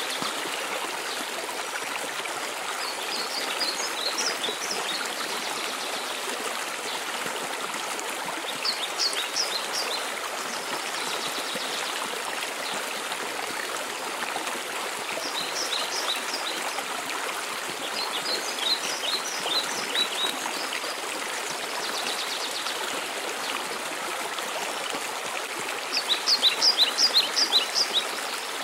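Steady rush of a mountain waterfall, with a songbird singing short phrases of quick high chirps every few seconds; the loudest phrase comes near the end.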